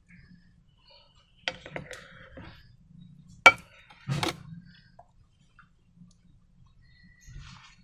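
Handling noises from slime-making with balloons and containers: a few sharp clicks and taps, the loudest about three and a half seconds in, with softer rustling between.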